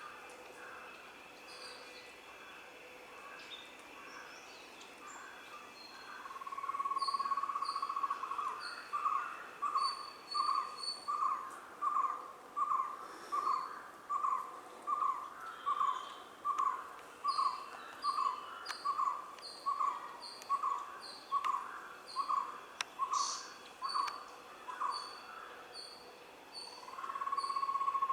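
A bird calling a long note that leads into a steady series of short, evenly spaced hoots at about one and a half a second, then another long note near the end. Other birds give short, high, repeated chirps over it.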